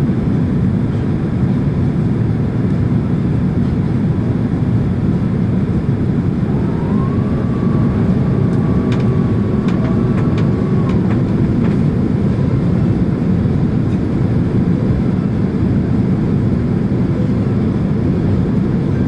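Steady rumble and rush of a Boeing 767-300ER in flight, as heard from inside the cabin. Midway through, a faint whine rises and then holds for a few seconds, and a few light clicks sound at the same time.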